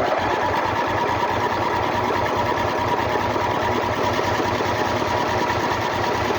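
Ride-on mower engine turned over by its electric starter motor, cranking steadily with an even whirring rhythm, on a first start after a rebuild.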